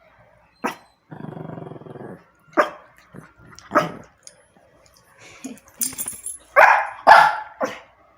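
Pet dogs barking: a string of short, sharp barks, three in quick succession near the end, with a low growl lasting about a second starting about a second in.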